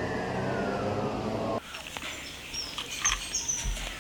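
Siren wailing in a rising-then-falling sweep that cuts off suddenly about a second and a half in, followed by birds chirping.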